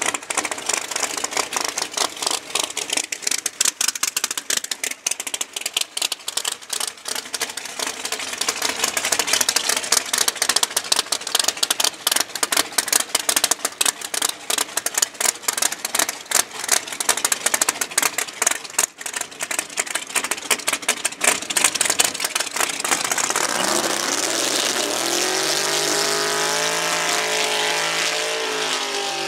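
Drag race car's engine running with a rapid, choppy exhaust rattle. About 23 s in it revs up, rising in pitch, and holds at high revs through a smoky burnout.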